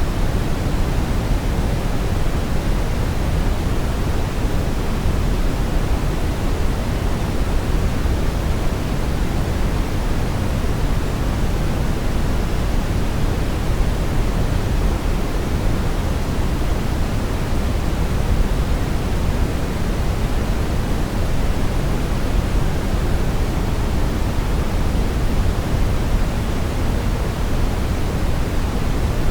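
Synthetic brown noise: a steady, even rumbling hiss with most of its weight in the low end, unchanging throughout.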